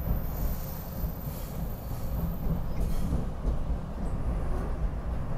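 Steady low rumble and rattle of a SEPTA Regional Rail passenger car running on the rails, heard from inside the car.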